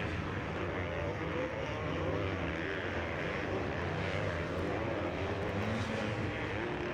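Several motocross bikes racing around the track at once, their engines revving up and down in overlapping tones.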